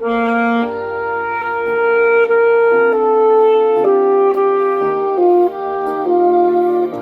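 Saxophone playing a slow melody of long held notes, with a lower accompaniment underneath.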